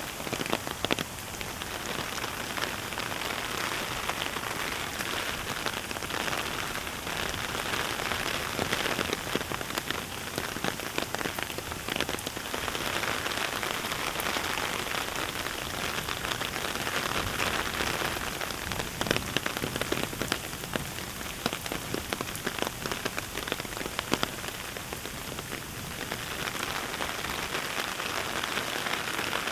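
Heavy rain falling steadily, with many sharp individual drop hits close by, swelling and easing every few seconds.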